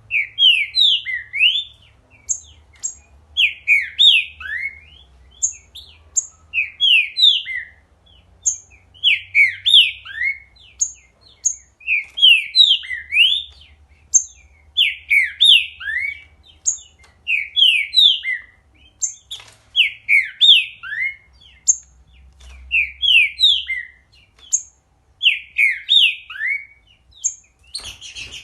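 A songbird singing, repeating quick phrases of sweeping whistled notes about every one to two seconds, with short high notes between them.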